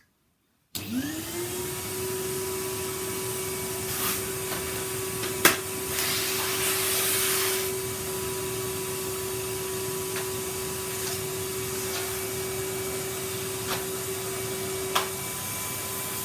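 A vacuum cleaner is switched on about a second in: its motor spins up to a steady whine and runs on as it is used on a carpet. There is a sharp knock about five seconds in, a louder rushing stretch of about a second just after it, and a few small ticks later.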